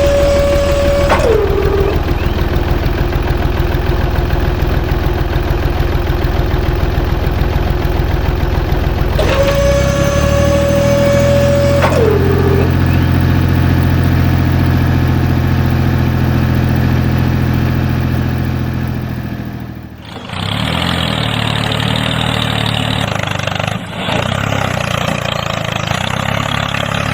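Engine of a small tractor or truck running steadily, with a held high tone that drops in pitch about a second in and again about twelve seconds in. About twenty seconds in the sound switches abruptly to a rougher, noisier engine running.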